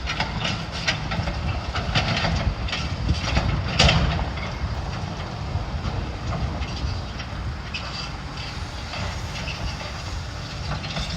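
Gusty wind buffeting the microphone as a steady low rumble, with irregular knocks and clatter scattered through it; the loudest knock comes about four seconds in.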